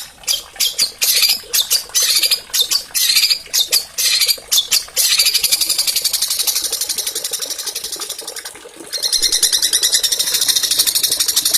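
Small songbirds singing high-pitched song. It opens with a string of sharp, separate chirps, runs into a fast buzzing trill that fades away, and a second fast trill starts about nine seconds in.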